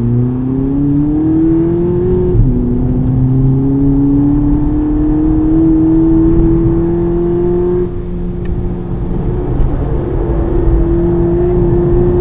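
VW Polo GTI's turbocharged four-cylinder engine pulling hard under acceleration. Its note rises, drops sharply at an upshift of the six-speed DSG gearbox about two seconds in, then climbs slowly again. It eases off briefly later and then runs steadily.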